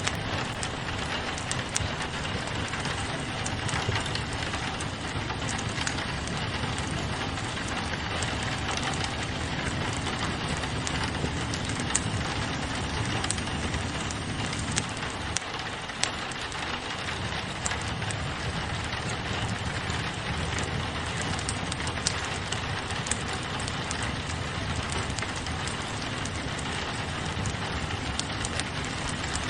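Steady rain falling on a window, mixed with a wood fire crackling and giving occasional sharper pops.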